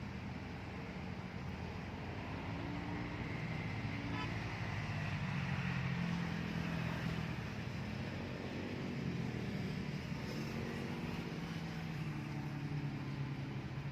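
Motor vehicle traffic passing, with engine hum that swells about halfway through and then eases off.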